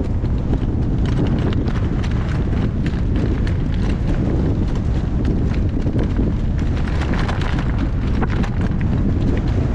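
Strong wind buffeting the microphone with a steady low rumble, while a horse's hoofbeats sound as a loose series of clicks and knocks underneath.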